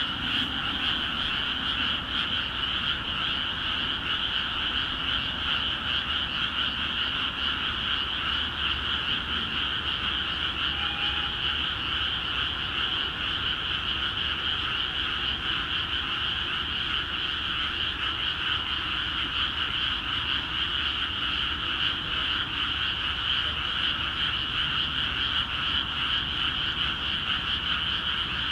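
Many frogs calling together in a dense, steady, unbroken chorus from flooded rice paddies: the spring breeding chorus that starts once the fields are filled with water.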